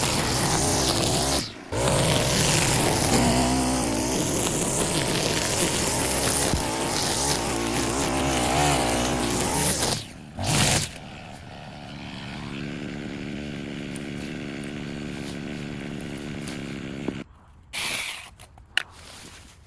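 A motorised yard cutting tool running loudly at high speed, with a brief break about a second and a half in and again around ten seconds. After that comes a quieter steady running sound, and a few short bursts near the end.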